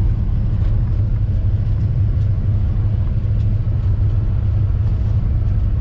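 1957 Chevrolet 3100 pickup's 350 small-block V8 running steadily as the truck rolls along at low speed, a continuous low rumble.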